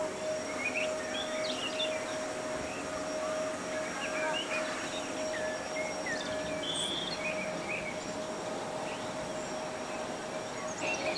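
Outdoor background noise with birds giving short, scattered chirps, over a steady faint tone.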